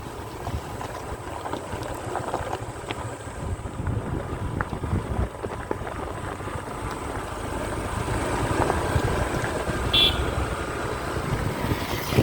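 Motorcycle riding noise: wind buffeting the microphone over the rumble of the bike and road, getting slightly louder in the second half. A short high chirp sounds near the end.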